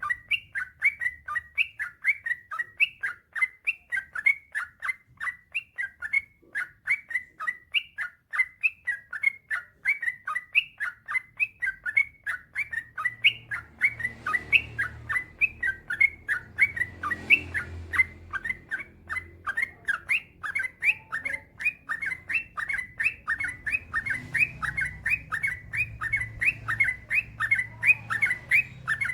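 Yellow-vented bulbul singing in a long unbroken run of short repeated chirping notes, about two to three a second. A faint low rumble sits underneath from about halfway.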